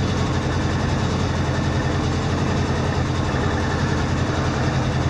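Rear-mounted air-cooled flat-four engine of a 1963 Volkswagen bus idling steadily.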